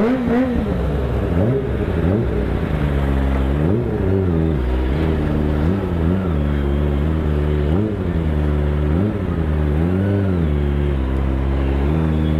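Kawasaki ZX-25R's 250cc inline-four engine revving up and down repeatedly, about nine quick rises and falls in pitch over its steady running note, as the bike pulls away and rides slowly.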